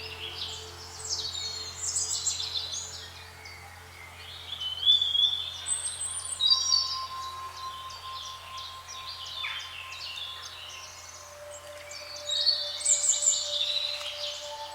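Several songbirds chirping and trilling in quick bursts, busiest about two seconds in, around five to seven seconds in, and near the end. A soft, steady background drone of sustained tones runs underneath.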